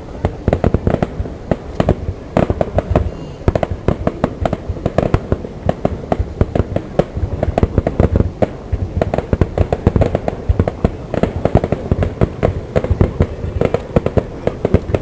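Fireworks display going off in a dense barrage: many bursts and crackles a second, overlapping without a break.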